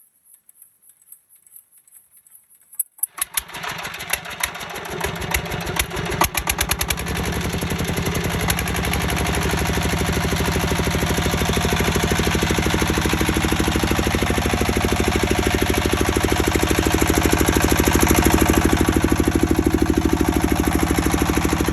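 Diesel engine starting: after about three seconds of quiet it fires with irregular sharp knocks, catches, and within a few more seconds settles into steady running with rapid, even firing.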